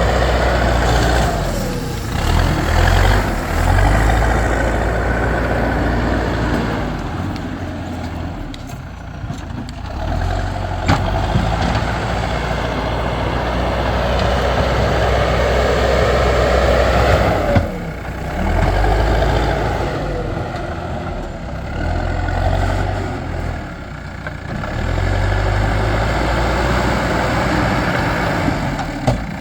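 Backhoe loader's diesel engine running under changing load, rising and falling in speed as the machine works, with a sharp knock about two-thirds of the way through.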